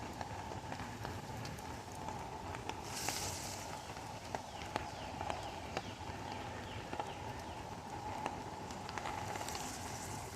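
Steady rain with many drops tapping close by at irregular intervals, and a brief louder hiss about three seconds in.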